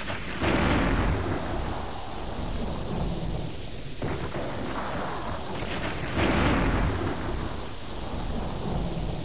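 Deep rumbling noise, like thunder, swelling loudest just under a second in and again around six seconds in.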